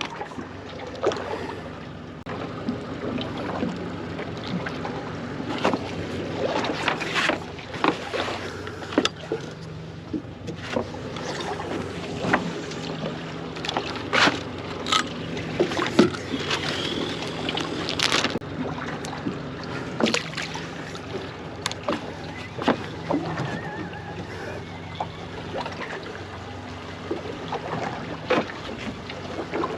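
Water slapping against the hull of a small offshore fishing boat, with irregular knocks and splashes over a steady low hum.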